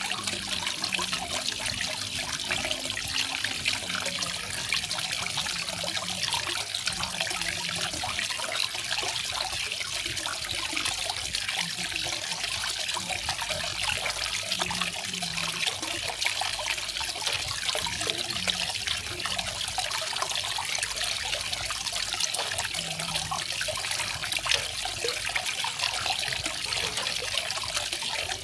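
Garden waterfall: water falling and splashing steadily, a dense hiss of splashing with a faint low trickle beneath.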